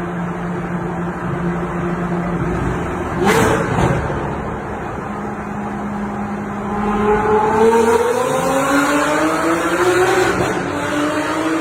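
Lamborghini Aventador SVJ's V12 engine in a tunnel. It runs at a steady low pitch, with two sharp bangs a little over three and four seconds in, then climbs steadily in pitch through the last five seconds as the car accelerates.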